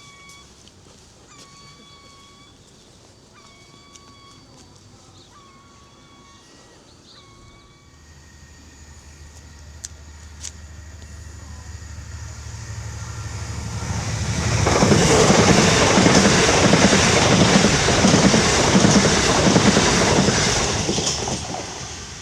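A level-crossing warning alarm sounds in a repeating tone for the first several seconds. Then a train approaches with a low rumble building from about eight seconds in, passes loudly through the crossing for several seconds, and fades near the end.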